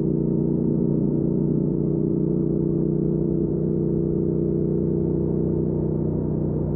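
Triumph Speed Twin 1200's parallel-twin engine running through Weslake Shorty Pro exhausts while cruising, holding a steady engine speed.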